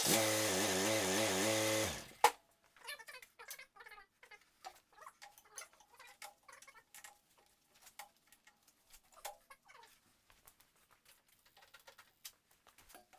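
A loud buzzing hiss with a wavering pitch for about two seconds that cuts off, then a sharp click, then faint scattered clicks and ticks of metal hydraulic quick couplers being handled and pushed together without locking, because the lines are under pressure.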